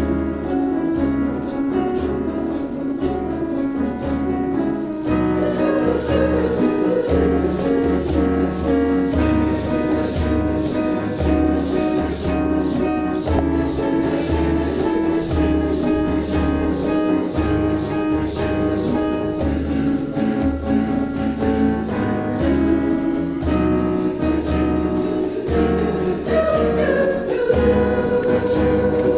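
Choir singing in parts over instrumental accompaniment, with a steady beat in the bass and light percussion.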